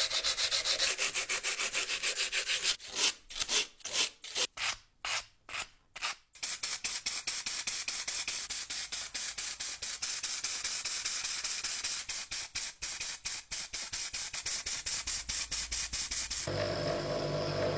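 Sandpaper rubbed back and forth in rapid, even strokes, which slow to about two a second for a few seconds before speeding up again. A low, steady hum starts near the end.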